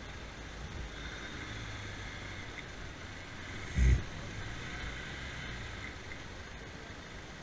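Two-wheeler running steadily on the road, with one brief heavy thump about four seconds in.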